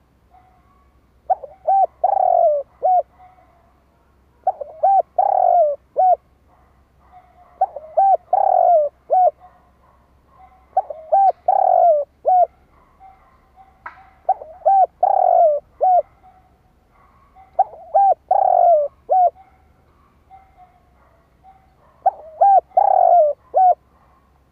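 Spotted dove cooing: seven repeated phrases about three seconds apart, each a few short coos around one longer, louder coo. It is the cu gáy call played to draw wild doves.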